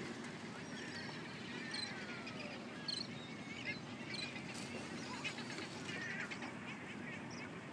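Many overlapping honking animal calls, short and scattered, over a steady wash of water and wind.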